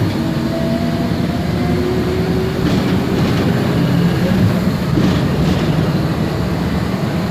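MAN Lion's Classic city bus driving, heard from inside the cabin: the steady drone of its CNG engine, with a faint drivetrain whine from the ZF Ecomat automatic gearbox and a few short rattles about three and five seconds in.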